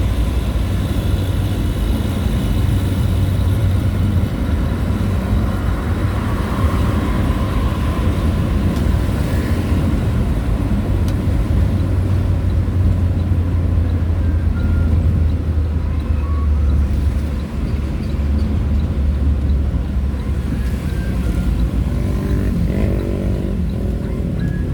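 Steady low engine rumble and road noise of a moving vehicle, running without a break.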